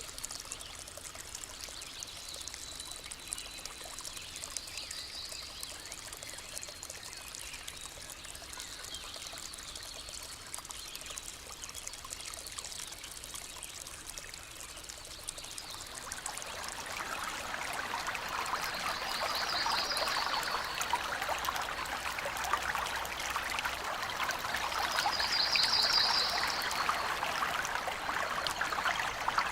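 Water flowing and trickling in a stream, growing louder about halfway through. Two short high trills sound over it near the end.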